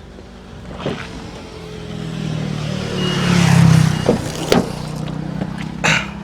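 A motor vehicle's engine running, swelling louder to a peak about three and a half seconds in and then easing, with several sharp clicks and clunks.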